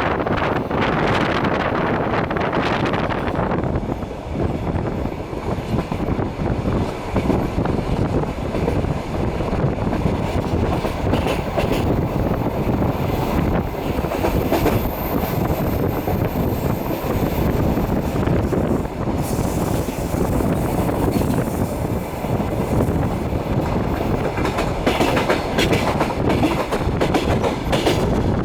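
Passenger train running along the track, its wheels clattering over the rails, heard from a carriage window. A faint high squeal runs through the middle.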